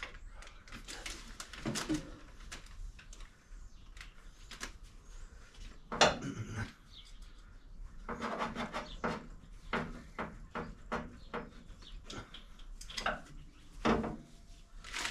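Workshop handling noises: tools and metal parts clinking and knocking, with a sharper knock about six seconds in.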